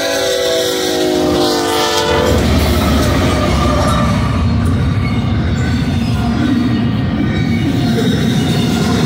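Chord horn of a BNSF ET44C4 locomotive blowing for the first couple of seconds, its pitch dropping as the locomotive passes. Then the steady rumble of the three locomotives and the double-stack intermodal cars rolling by on the rails.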